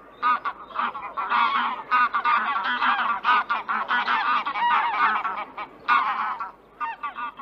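A flock of birds calling: many short calls overlapping in a dense chorus that thins to scattered single calls near the end.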